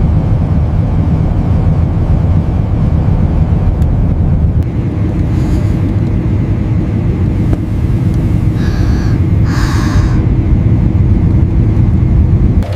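Loud, steady low rumble of an airplane in flight, with a few short higher hissing sounds in the second half.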